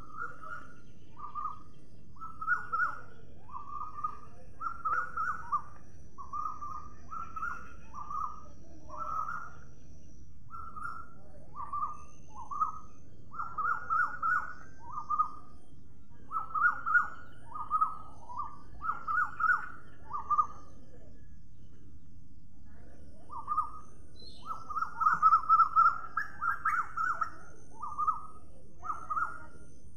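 Bird calls: short chirping notes repeated in quick runs, with a brief pause about two-thirds of the way through, over a faint steady hiss.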